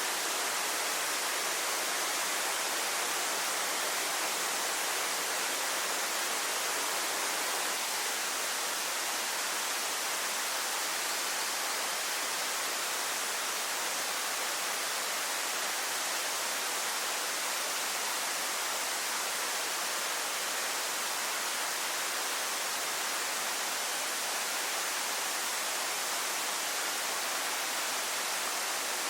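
Waterfall pouring steadily: a constant, even hiss of falling water.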